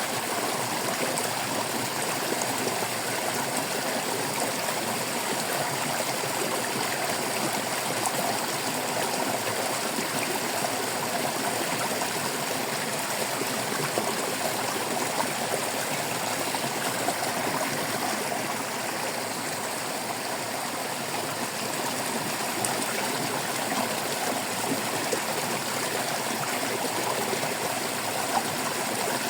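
Shallow stream water babbling and trickling over stones, a steady, unbroken rush.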